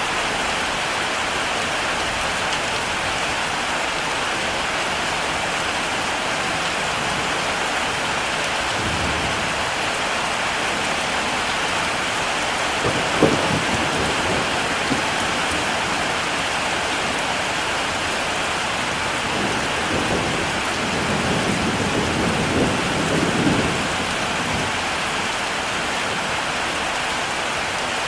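Heavy rain falling steadily, with thunder rumbling now and then: a short roll about nine seconds in, a sharper clap about halfway, and a longer rumble near the end.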